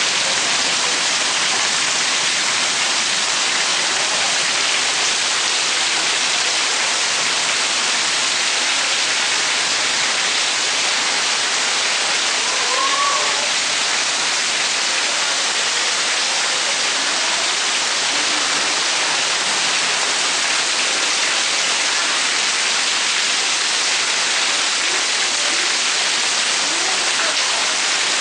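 Monsoon rain falling steadily, a dense, even hiss that does not let up.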